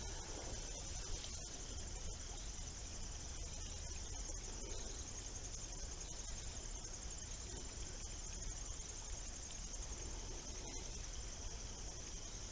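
Crickets trilling in a steady, unbroken high chorus, with a faint low rumble underneath.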